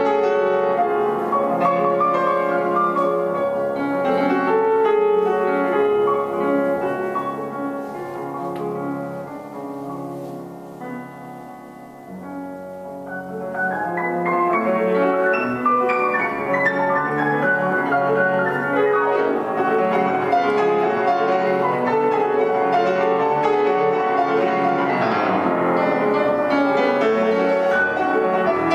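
Solo piano playing classical music, easing into a quieter passage about ten seconds in and swelling louder again from about thirteen seconds.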